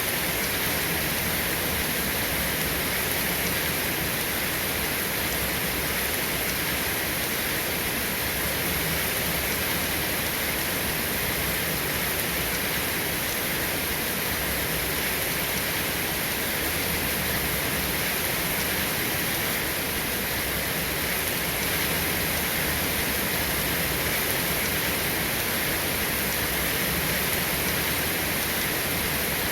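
Steady, unbroken rain.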